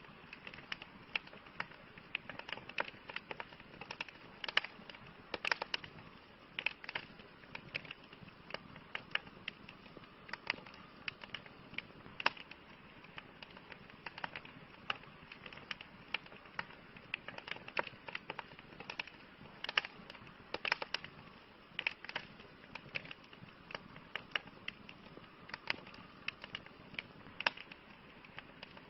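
Wood fire burning, with frequent irregular crackles and pops over a steady soft hiss.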